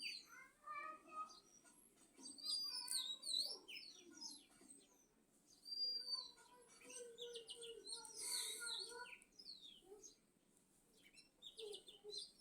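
Birds chirping and calling: many quick whistled notes sliding up and down, coming in spells with short lulls.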